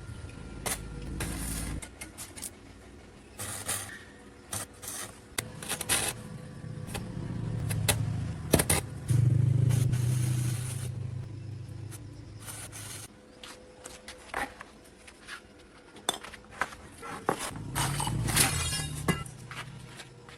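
Steel clanking and scraping, many sharp knocks and clinks one after another, with a low machine rumble that swells twice.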